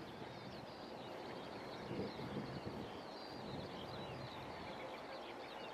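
Faint birdsong, many short chirps, over a low background rumble that swells slightly about two seconds in.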